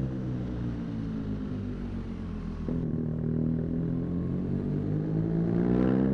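BMW R nineT's 1170 cc air/oil-cooled boxer twin through an aftermarket Arrow high-mounted exhaust, heard on the move. The engine note falls as the bike slows off the throttle, a brief click comes about two and a half seconds in, and the note then rises again as it accelerates near the end.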